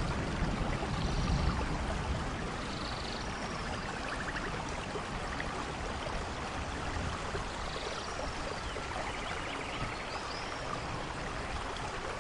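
Steady rain falling, with a low thunder rumble dying away in the first couple of seconds. A few faint, short high chirps sound over the rain.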